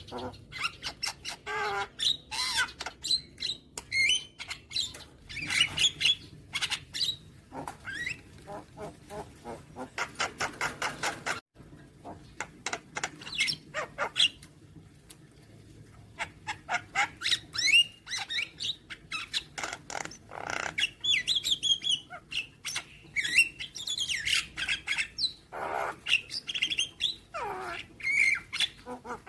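Javan myna singing a varied song of harsh squawks, chirps and gliding whistles, broken by series of rapid clicks, with a fast rattle about ten seconds in.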